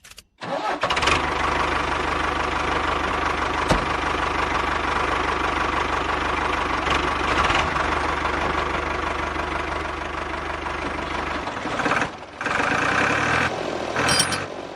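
Small motor and gears of a DIY mini model tractor running steadily, a mechanical whirr that starts abruptly. Near the end it breaks off and restarts unevenly.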